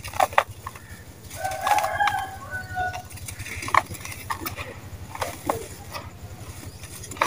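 Dry sand-cement chunks crumbling and cracking, with sharp cracks a moment in and again near the four-second mark, and smaller crackles between. An animal calls in the background for about a second and a half, starting roughly a second and a half in.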